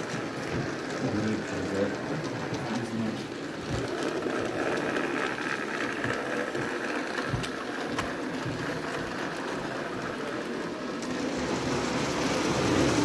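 Small electric model train running along layout track with a steady whirring, rattling clatter and occasional clicks. Murmur of people talking behind it.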